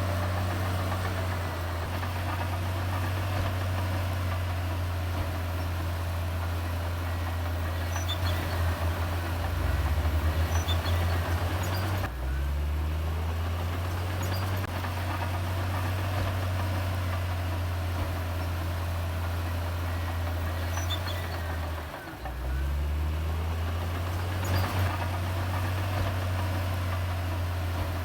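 Heavy diesel engine of earthmoving machinery running with a steady low note. About ten seconds in it grows louder and throbs, its pitch shifts at about twelve seconds, and near twenty-two seconds it briefly drops away before picking up again.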